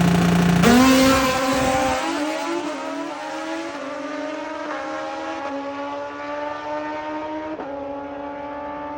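Drag racing motorcycle engine held at steady revs, then launching under full throttle less than a second in. It shifts up through the gears, the pitch climbing in a series of stepped rises as the bike pulls away down the strip and fades.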